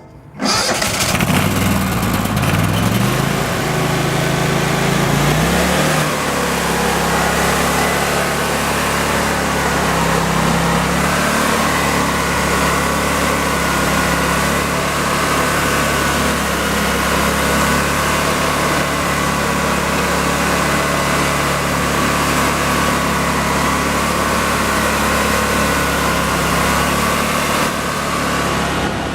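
Rayco 1625 Super Jr stump grinder's engine starting about half a second in and picking up speed over the first few seconds, then running steadily.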